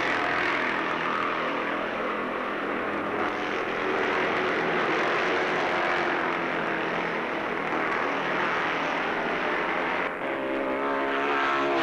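A tight bunch of racing motorcycles (500 Nortons, 500 Triumphs and a 650 BSA) run at high revs as they pass together. Their engines blend into one dense note, and near the end a single engine's note stands out clearly, rising in pitch.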